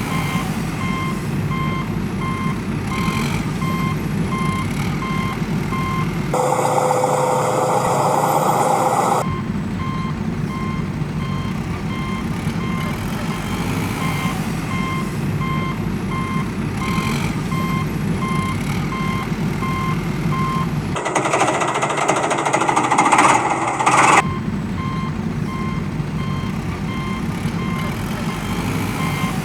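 A reversing alarm beeping about twice a second over a steady low engine rumble of a truck. It is twice replaced for about three seconds by a louder, different sound in which the beeping and the rumble stop, a little after a quarter of the way in and again about three-quarters of the way through.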